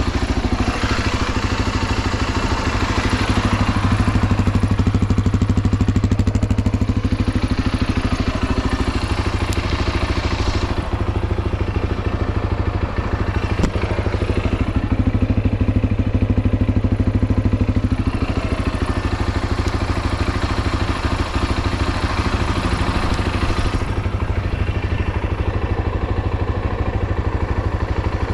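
Yamaha XT250T's air-cooled single-cylinder four-stroke engine running steadily at idle after a cold start, with no abnormal noises. The upper, clattery part of the sound grows and fades a couple of times, while the low engine note stays even.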